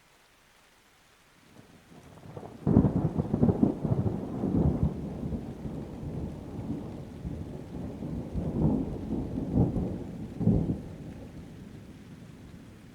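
Thunder over light rain: a rumble builds and breaks into a loud crack a few seconds in, then rolls on in several low swells that peak again later and die away near the end.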